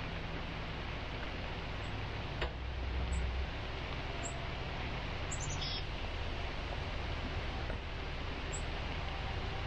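Steady outdoor hiss with a low rumble, over which a small bird gives a few short high chirps, including a quick run of falling notes a little before six seconds in. A single sharp click comes about two and a half seconds in.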